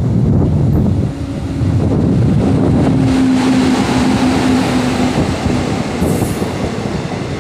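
Electric locomotive and its passenger coaches passing close by: a loud, steady rumble of wheels on the rails, with a steady hum while the locomotive goes past, from about a second in until past the middle.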